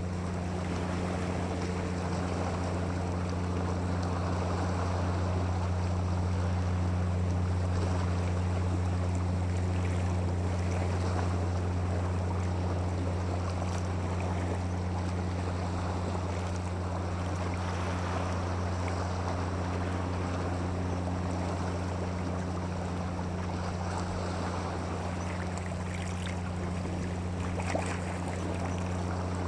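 A steady low hum over a continuous, even rushing of water, with no change from start to finish.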